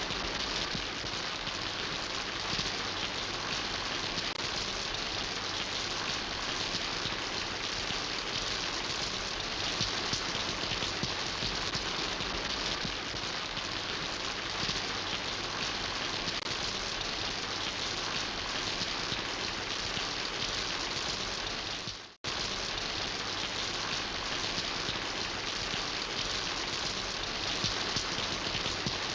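Steady rain falling, a dense, even patter of drops. The sound cuts out for a split second about three quarters of the way through, then resumes.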